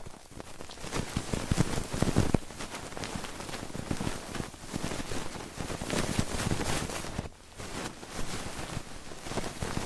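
Dense, close-up crackling and scratching from ASMR trigger sounds on the microphone, made of many fine clicks. It is louder for about a second near the two-second mark and dips briefly near the end.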